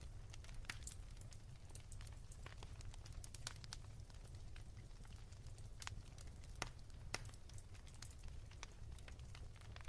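Wood fire in a fireplace crackling softly: irregular sharp pops and snaps over a steady low rumble, with a few louder pops about two-thirds of the way in.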